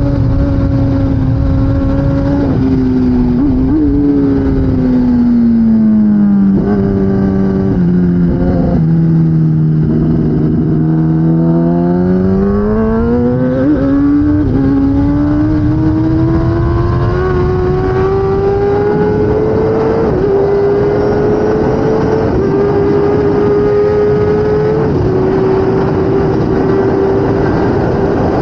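A 2016 Kawasaki ZX-10R superbike's inline-four engine at race pace. Its pitch steps down through several downshifts with quick throttle blips as the bike brakes for a corner, sits low for a moment, then climbs hard as it accelerates out, shifting up several times near the end. Steady wind rush runs under the engine.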